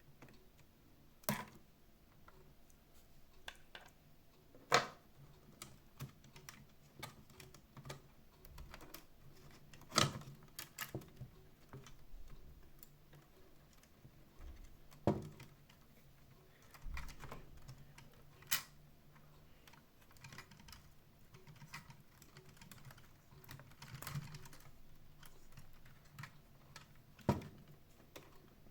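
Irregular light clicks and taps of small plastic and metal parts being handled during disassembly of a robot vacuum cleaner, with a few sharper knocks scattered among them.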